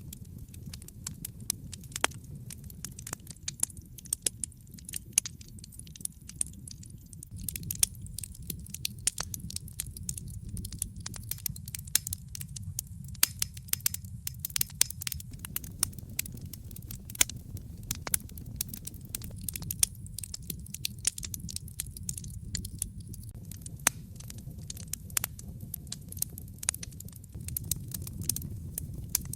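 Wood fire crackling in a fireplace, with frequent irregular sharp pops and snaps over a low steady rumble.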